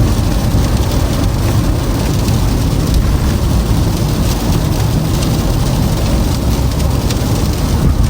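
Toyota Camry driving on a snow-covered, icy road: a steady rushing noise of tyres on the road surface and wind, strongest in the low rumble.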